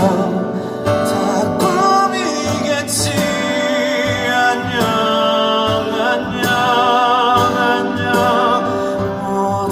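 Live pop ballad: a male voice sings long, wavering held notes over band accompaniment with a steady beat.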